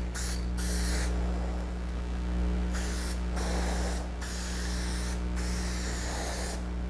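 Aerosol spray paint can hissing in a series of passes with brief breaks, laying a wet second finish coat on a car bumper, over a steady low hum.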